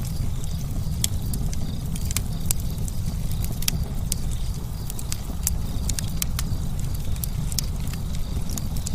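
Campfire crackling, with sharp irregular pops and snaps over a steady low rumble of burning.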